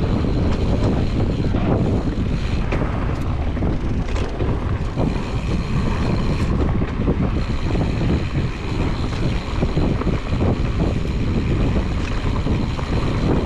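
Wind rushing over an action camera's microphone on a fast mountain bike ride, over the steady noise of tyres rolling on a dirt trail, with frequent short knocks and rattles from the bike over bumps.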